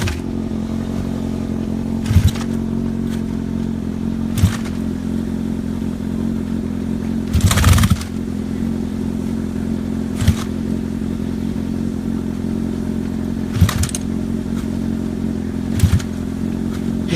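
Motorcycle engine idling steadily, with six short sharp pops or knocks spread through it; the one about halfway through is the longest and loudest.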